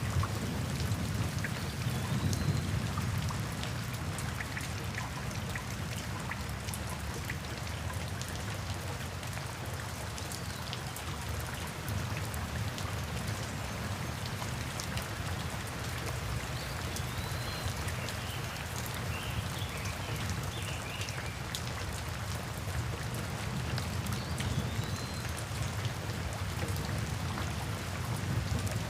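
Steady rain falling, with many individual drops ticking on a surface over a continuous low rumble of heavier rainfall.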